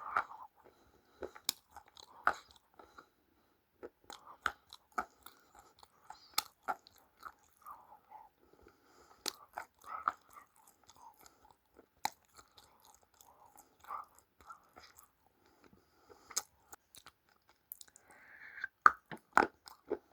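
A person chewing crunchy food close to the microphone: irregular sharp crunches and crackles, with a louder run of bites near the end.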